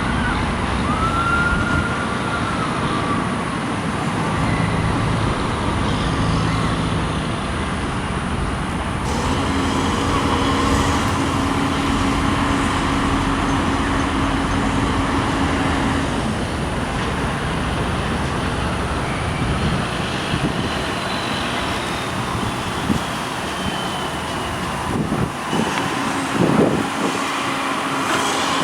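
Steady drone of heavy vehicle and construction-machinery engines with traffic noise, and a low engine hum that comes in about a third of the way through and again near the end.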